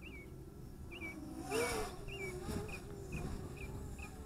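A small bird chirping over and over, short curved calls about twice a second. About one and a half seconds in, a brief louder swell with a wavering lower tone passes.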